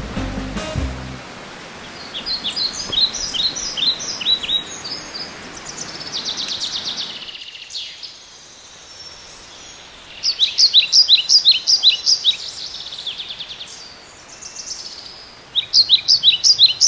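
A bird singing in runs of quick, repeated chirps, three runs of a few seconds each, over a steady background hiss that drops away about seven seconds in.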